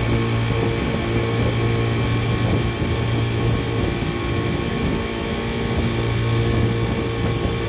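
Outboard motor of a small tour boat running steadily under way, with a steady hum under the hiss of water and wind.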